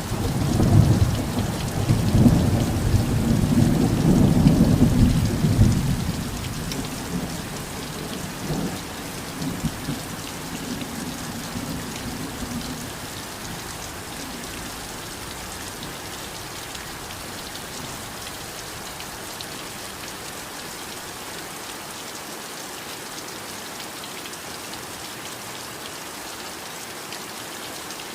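Heavy rain falling in a steady hiss, with a long roll of thunder that rumbles loudest in the first few seconds and fades out by about halfway.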